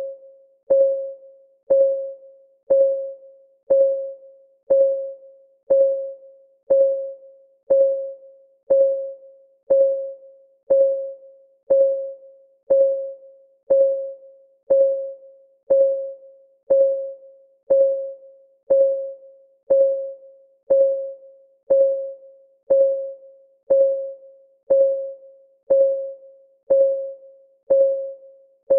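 Countdown timer's clock-tick sound effect: a short, pitched tick once a second, each a clear tone that starts sharply and rings out briefly, repeating evenly.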